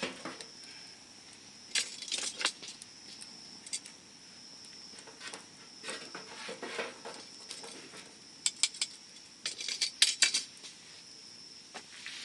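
Wood fire crackling, with sharp pops and snaps coming in clusters, the loudest about ten seconds in.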